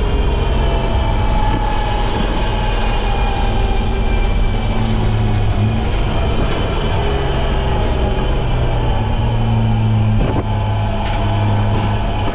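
BMW E30's M20B25 straight-six engine running hard on track, with tyre and spray hiss from a wet, standing-water surface. There is a short dip in level about ten seconds in.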